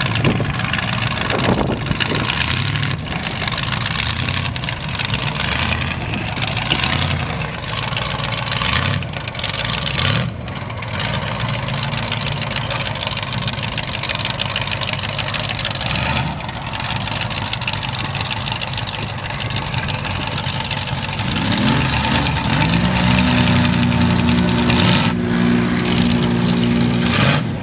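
Truck engines running loud over a steady noisy rumble. About three quarters of the way through, one engine revs up and holds a steady high rev until near the end.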